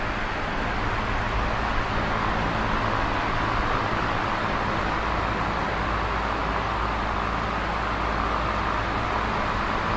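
Electric fan running steadily: an even whoosh of moving air with a low, constant motor hum underneath.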